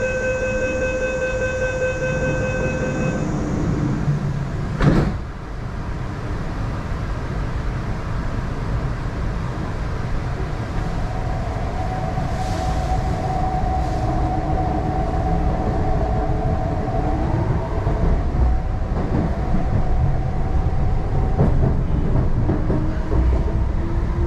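Door-closing warning beep on an MTR East Rail line R-Train, one steady tone for about three seconds, then the sliding doors shut with a thump about five seconds in. From about eleven seconds the traction motors whine as the train pulls away, the pitch climbing near the end over the rumble of the car.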